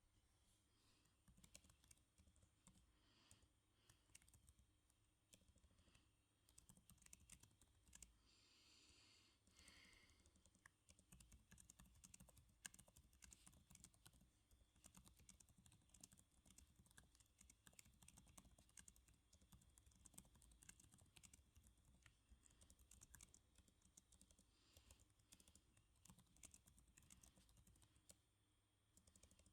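Soft computer keyboard typing: quick, irregular keystroke clicks that run on with brief pauses, faint and close. A short, soft hiss comes about eight seconds in.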